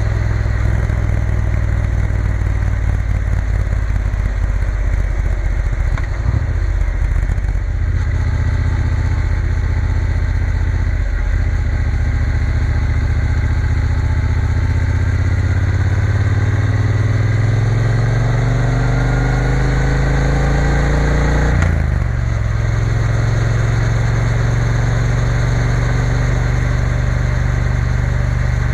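Triumph Bonneville T120's parallel-twin engine running while riding. Its revs climb steadily for several seconds past the middle, then drop sharply and settle back to a steady pull.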